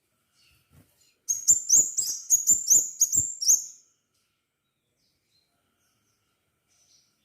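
Crimson sunbird calling: a quick run of about eight high, sharp chirps over roughly two and a half seconds, starting a little over a second in.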